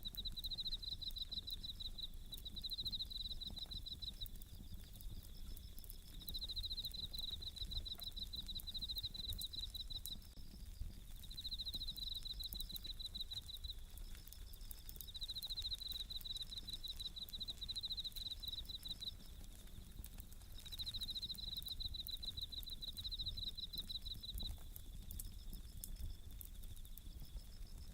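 Japanese bell crickets (suzumushi) singing: high-pitched pulsed trills repeated in bouts of a second or two, with short gaps between. Faint scattered crackles of a wood campfire run underneath.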